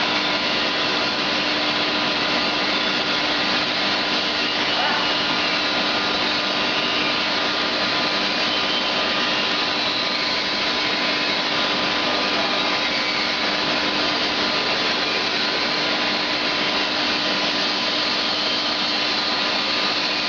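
Scrap copper melting furnace running: a steady, even rushing noise with a constant hum and whine through it, unchanging throughout.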